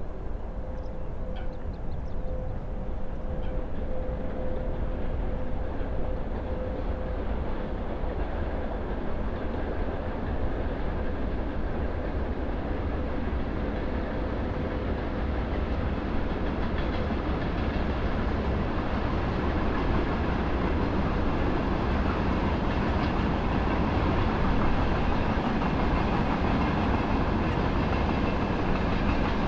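Train passing on the railway, the rumble of its wheels on the rails growing gradually louder, with a faint steady hum in the first half.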